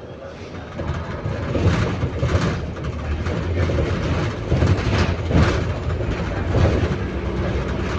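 London bus heard from inside, its engine and body rumble rising as it gets moving about a second in, with irregular knocks and rattles over the rumble. This is the weird noise the bus makes mainly while moving.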